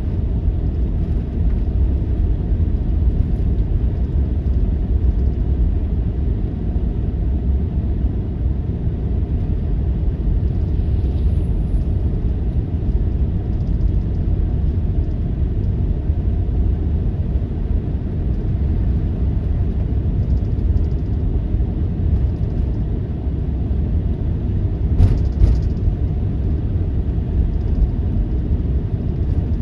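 Steady low rumble, with a couple of short clicks about 25 seconds in.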